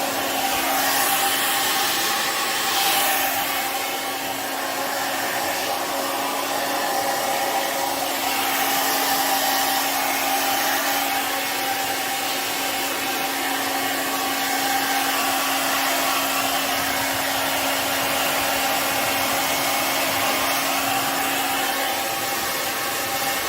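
Handheld hair dryer running steadily, a continuous rush of air over a constant motor hum. The hiss brightens now and then as the airflow shifts.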